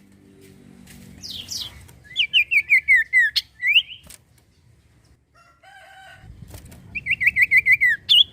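Common iora (cipoh, sirtu) singing: two rapid runs of about eight sharp notes each, falling in pitch, the second near the end, with a few single whistles and a short lower chatter in between.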